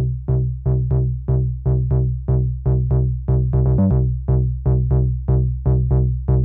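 Malekko Manther analog monosynth playing a repeating bass sequence at about three notes a second. Each note starts bright and closes quickly, like a plucked filter sweep. Just past the middle comes a brief flutter of very fast repeated notes.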